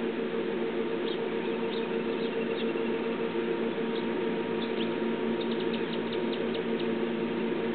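Steady low hum and hiss with a scatter of faint, short high chirps from small birds, most of them packed together a little past the middle.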